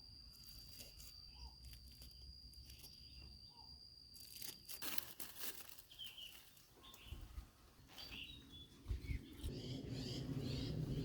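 Crunching, crackling handling noises outdoors, with a steady high insect tone that stops suddenly about five seconds in. Short bird chirps follow in the second half.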